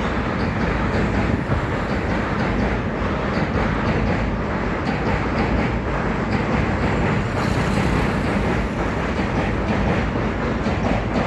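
Goods train of freight wagons rolling across a railway bridge: a steady rumble of wheels on the rails with faint, repeated clicking.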